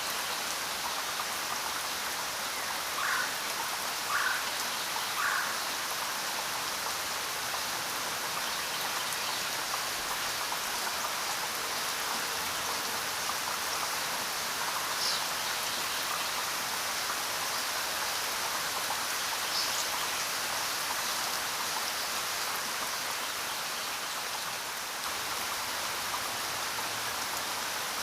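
Steady rain falling, an even hiss of drops on surfaces. Three brief, slightly louder sounds stand out about three to five seconds in.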